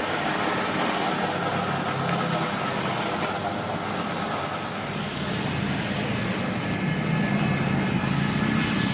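Electric HTP sprayer pump running steadily as a car wash machine, a constant hum under an even hiss.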